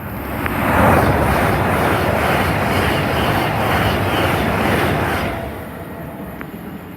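Electric passenger train passing the platform at speed: a loud rush of noise swells within the first second, holds steady for about four seconds, then fades.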